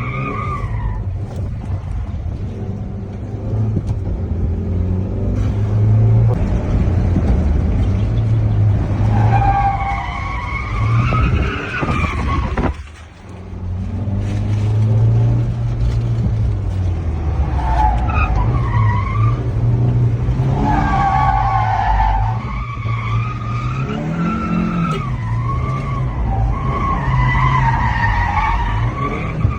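Suzuki Carry mini truck with a locked rear differential drifting: its engine runs hard under throttle while the rear tyres squeal in several long wavering bursts, easing off briefly about halfway through.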